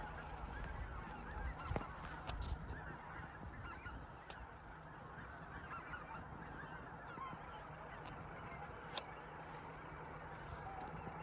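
A large flock of wild geese honking continuously, many overlapping calls at once, with a few brief knocks about two seconds in and near the end.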